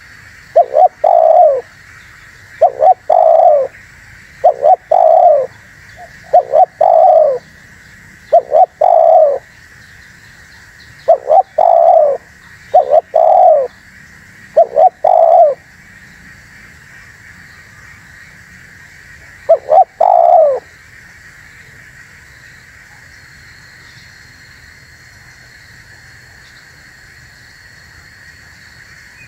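Spotted dove (tekukur) cooing: short phrases of a few low, rolling coo notes repeated about every two seconds, then a pause, one more phrase about twenty seconds in, and silence from the bird after that.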